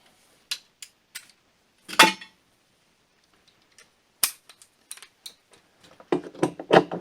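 Scattered sharp metallic clicks and knocks from handling tools and parts while working on a leaf blower, with a louder knock about two seconds in and a busier clatter near the end.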